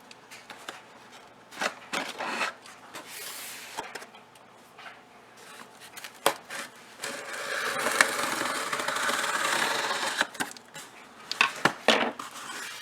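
Cardboard shipping box being opened and its packing handled: scattered knocks and scrapes, then about three seconds of steady rustling and scratching through packing peanuts, with a cluster of sharp clicks near the end.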